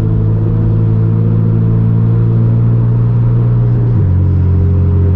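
BMW M4 F82's twin-turbo inline-six through a straight-piped AWE non-resonated track exhaust, droning steadily while cruising. About four seconds in, the pitch drops a step and holds there.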